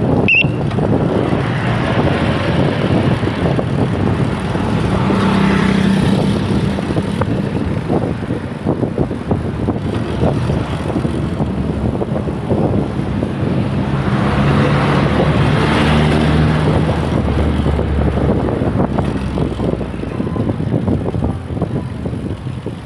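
Wind rushing over the microphone of a moving bicycle, with road traffic. A motor vehicle passes about five seconds in and another about fifteen seconds in.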